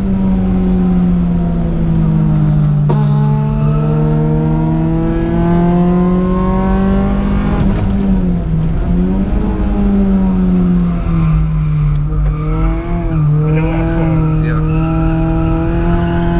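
Supercharged Honda K20 four-cylinder engine in a Civic, heard from inside the cabin while driven hard on track. The revs climb for several seconds and drop with each gear change or lift, about 8 seconds in and again a few seconds later.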